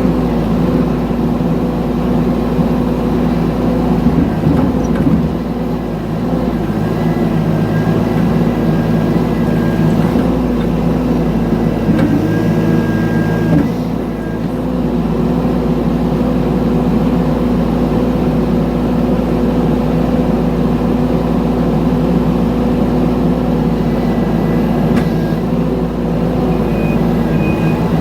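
Mini excavator's diesel engine running steadily at working speed, with brief dips in pitch about five and twelve seconds in. Near the end a faint, broken high beeping comes in.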